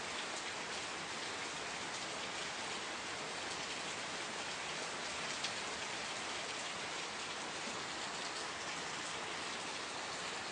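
Steady rain falling on a surface, an even hiss full of small drop ticks, with one slightly louder drop about halfway through.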